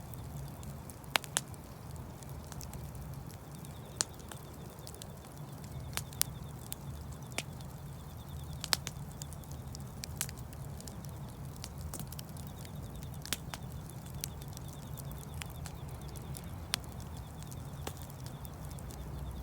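Wood fire crackling: sharp, irregular pops a second or more apart over a steady low rumble.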